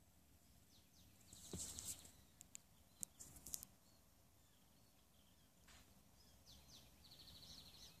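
Faint bird calls: short chirps and rapid buzzy trills, once about a second in and again near the end, with a few sharp clicks around three seconds in.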